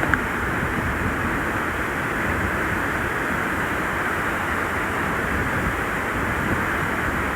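Steady rushing of water at a waterfall.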